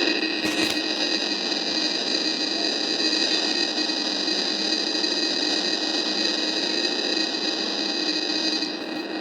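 Factory machinery running steadily: a constant noisy hum with several high, steady whining tones over it, and a couple of faint clicks near the start.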